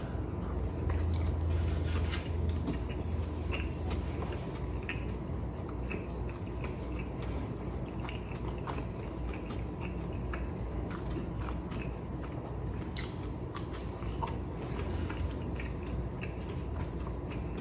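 A man chewing a mouthful of karaage fried chicken, with small clicks and soft mouth sounds, over a low steady hum.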